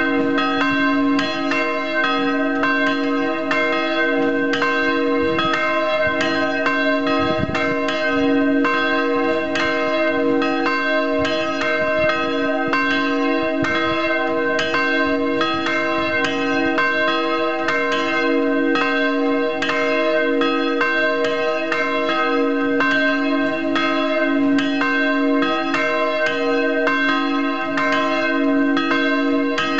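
Two swinging church bells, driven by linear motors, ringing together. Their strokes overlap in a steady, unbroken peal with long-ringing tones.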